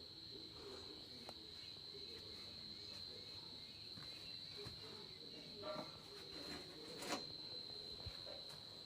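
Crickets chirring in one steady high-pitched drone, with a few faint clicks and knocks. No tractor engine is running.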